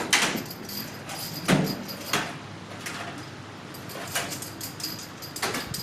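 Scattered knocks and metallic clinks, about five in all, with a duller thump about a second and a half in, from tools and coilover parts being handled while a coilover's spring preload is set.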